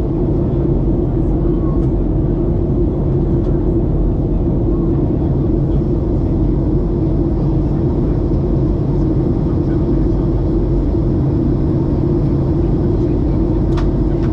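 Steady engine and airflow noise inside the passenger cabin of a Ryanair Boeing 737 during descent, with a constant low hum.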